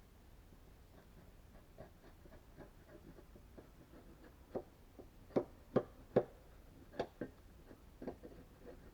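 Sharp knocks of wood striking wood, about six in a few seconds with uneven gaps, the loudest a quick group of three a little past the middle, with faint ticking and tapping around them.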